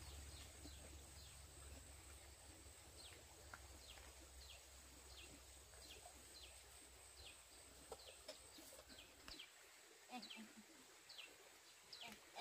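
Faint, short high chirps from birds, each sliding down in pitch, repeating every half second or so over a low steady hum that stops about nine seconds in.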